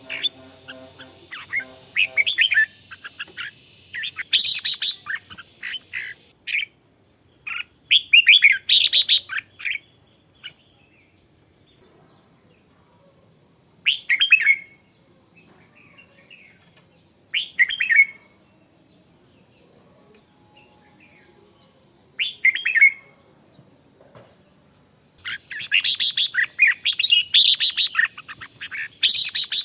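Red-whiskered bulbul singing in short, bright chirping phrases spaced a few seconds apart, with a longer, busier run of song near the end. A steady high thin tone runs beneath much of it.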